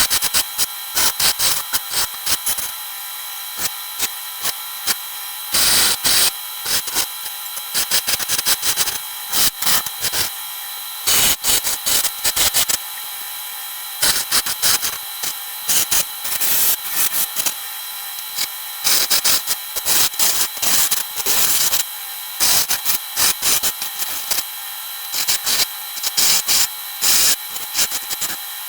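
Wood lathe running with a steady hum while a turning chisel cuts the spinning wood in irregular bursts of scraping.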